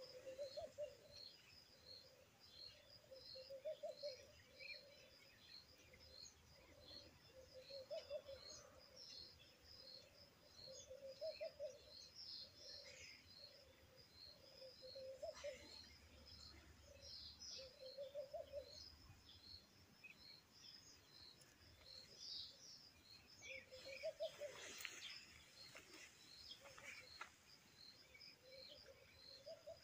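Faint birdsong: a high chirp repeated steadily throughout, with lower calls every couple of seconds and scattered other chirps.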